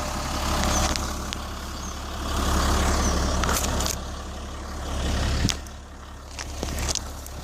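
GMC 6500 truck's engine idling after a cold start in sub-zero weather: a steady low rumble that swells in level twice, with a few light clicks.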